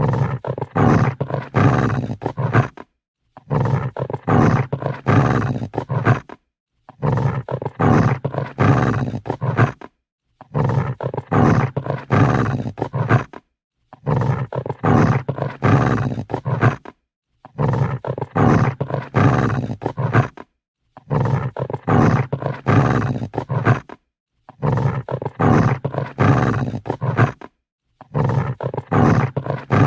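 Dog growling angrily in a low, rough rumble. It comes in spells of about three seconds, each broken off by a short silence, repeating over and over.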